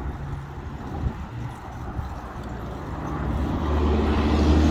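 A road vehicle's engine approaching, its low hum growing steadily louder over the last couple of seconds, over a background of traffic noise.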